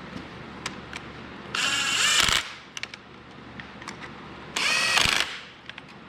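Handheld power driver run in two short bursts about three seconds apart, each with a slight rise in pitch, and a few light clicks of tools between them.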